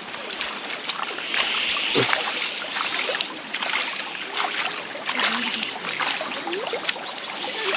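Shallow mountain stream running, with irregular splashing of water from children playing in it and faint voices in the background.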